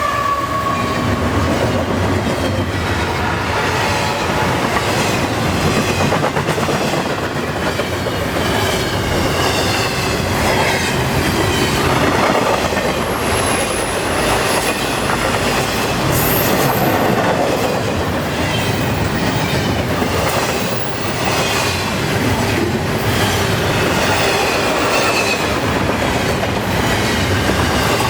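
Intermodal freight train of well cars rolling past at speed: a steady, loud rumble of steel wheels on rail, clicking over the rail joints, with a wavering high wheel squeal.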